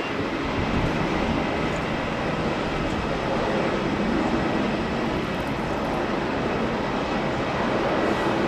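Jet airliner engines running with a steady noisy rumble and a faint high whine.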